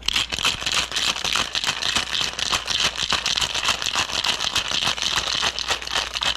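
Cocktail shaker full of ice being shaken hard: a fast, steady rattle of ice against the shaker walls.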